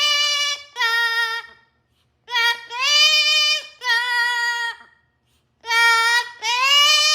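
Pet parrot calling loudly in drawn-out, voice-like cries: six long calls in three pairs, most rising in pitch, with short pauses between the pairs.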